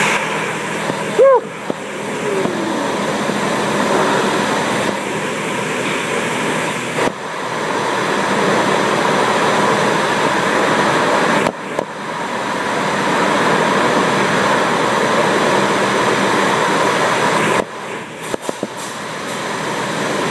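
Automatic car wash equipment running close by with a steady loud rush of spraying water or blowing air, broken by a few brief sudden dips.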